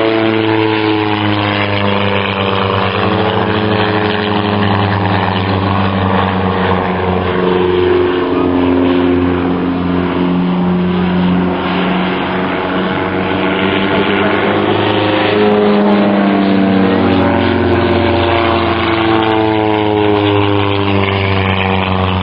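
Fokker Dr.I triplane replica's propeller engine running during an aerobatic display, its drone rising and falling in pitch as the aircraft manoeuvres and passes.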